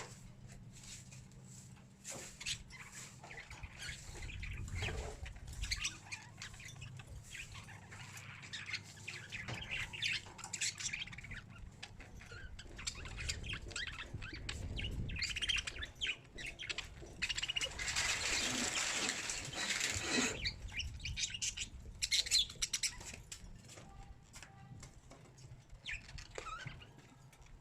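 Birds chirping and squawking amid many short scratchy clicks and flutters, with a louder rush of noise lasting about two seconds around two-thirds of the way through. A faint steady low hum sits underneath.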